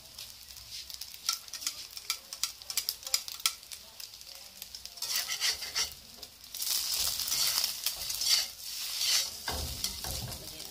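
Egg frying in oil in a wok, sizzling with many small pops. From about six seconds in, a metal spatula scrapes the wok as it turns the egg, and the sizzle grows louder.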